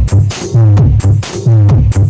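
Loud electronic dance remix played through a mini sound system: heavy bass notes and a quick beat of kicks that drop in pitch, with sharp high percussion hits.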